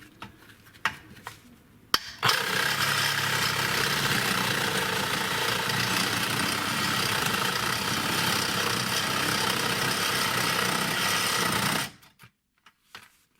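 Ryobi 18-volt cordless reciprocating saw with a carbide-tooth blade cutting through a 2.5-inch exhaust downpipe. A few light knocks come first, then the saw runs steadily for about ten seconds and stops suddenly.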